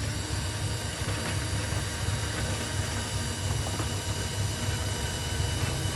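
Electric motors and gearboxes of RC toy construction vehicles, a dump truck and a Huina bulldozer, running steadily: a continuous low hum and rumble with a thin whine above it and a few light clicks.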